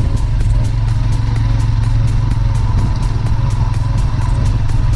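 Royal Enfield Himalayan's single-cylinder engine running steadily under way, a deep continuous rumble.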